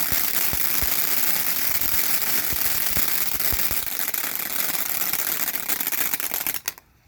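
Brothers Fireworks Shining Saucer fountain burning: a loud, dense hissing spray with fast crackling and scattered low pops, cutting off abruptly near the end.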